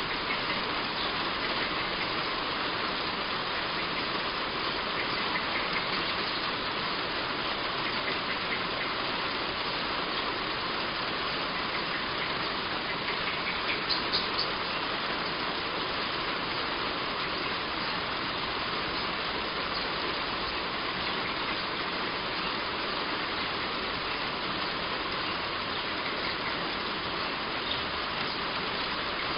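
Heavy rain falling steadily on a roof, an even, unbroken hiss; a few brief sharp ticks stand out about halfway through.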